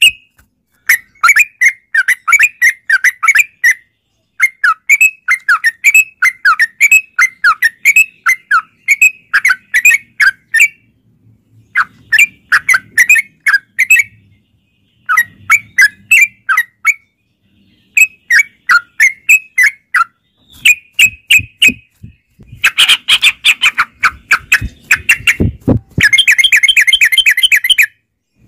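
Yellow-vented bulbuls (trucukan) calling in loud, fast bursts of chattering, bubbling notes, broken by short pauses. Near the end the calls come thicker and overlap, as if several birds are answering one another.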